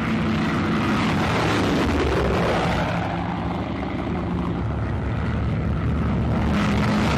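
Twin-engine Junkers Ju 88 bomber's piston engines and propellers droning in flight, swelling briefly a couple of seconds in.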